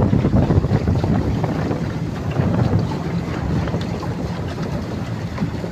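Wind buffeting the microphone over a low, steady hum.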